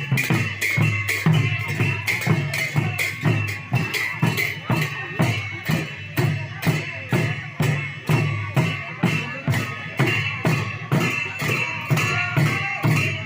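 Rhythmic percussion music: a drum and clashing cymbals keeping a steady, even beat of about two strikes a second.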